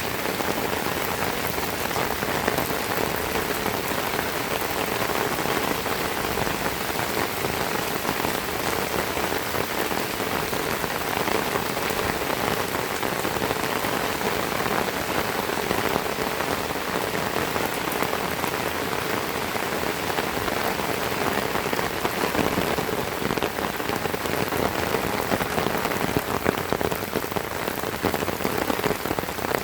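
Heavy rain falling steadily, a dense even hiss of drops hitting surfaces, with the individual drop impacts a little more uneven in the last few seconds.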